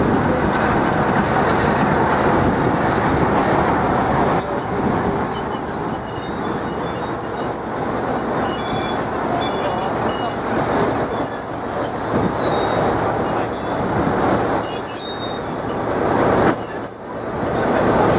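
A train running on the rails with a steady rumble; from about four seconds in, a high thin wheel squeal rises over it and holds, then cuts off near the end.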